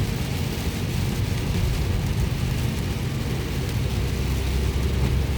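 Car driving on a wet road, heard from inside the cabin: a steady low rumble of engine and tyres with a fainter hiss over it.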